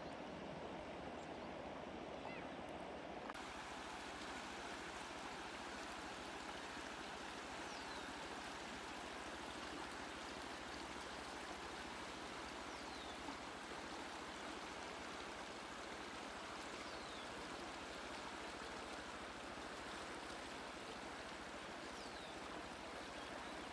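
River water flowing steadily, a continuous rushing wash. About three seconds in it turns brighter and hissier.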